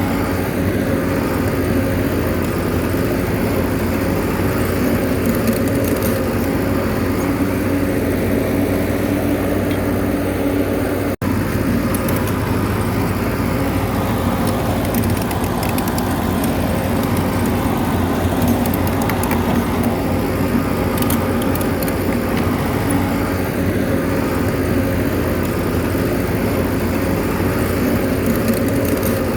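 Bulldozer's diesel engine running steadily under continuous work, with a brief cut-out in the sound about 11 seconds in.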